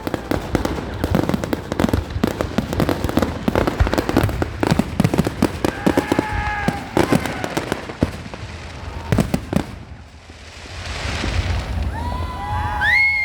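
Fireworks going off in a rapid, dense barrage of bangs and crackles for about nine seconds. Then the bursts stop and, near the end, a crowd cheers and whistles.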